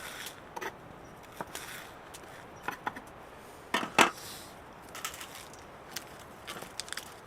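Scattered light clicks and knocks, about one or two a second, with a louder double knock about four seconds in.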